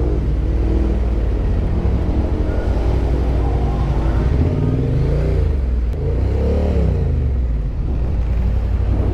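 Motorcycle engine running steadily at idle, its pitch rising and falling twice around the middle as the revs briefly come up and drop back.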